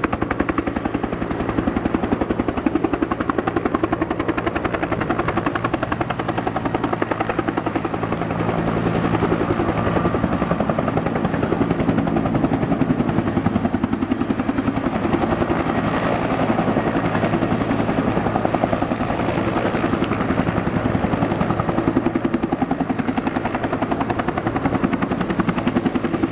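Helicopter rotor and engine running steadily: a rapid, even chop of the blades over a constant hum.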